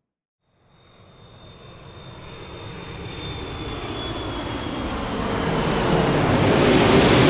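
Airplane cabin noise: a steady rushing roar with a faint high engine whine, fading in from silence and swelling over several seconds.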